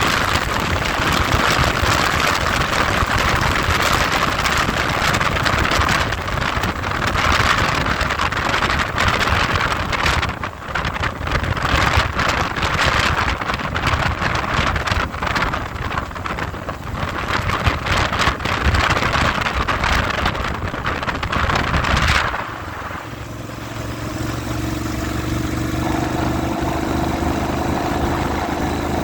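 Heavy wind noise buffeting the microphone while riding a motorcycle. About 22 seconds in the wind drops away suddenly, leaving the motorcycle engine running with a steady hum.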